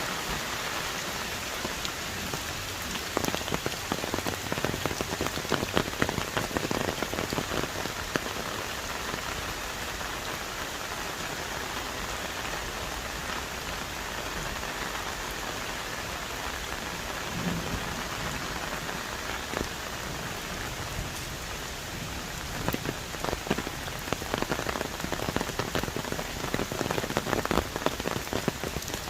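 Heavy tropical rain falling on forest trees: a steady hiss with a dense scatter of sharp drop impacts. The drops hit heaviest about three seconds in and again over the last several seconds.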